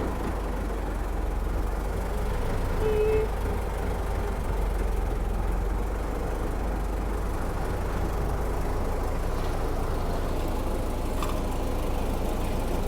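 Engine of a 1925 AutoCar Model 27K 3-ton truck running steadily with a low rumble, with one short beep-like tone about three seconds in.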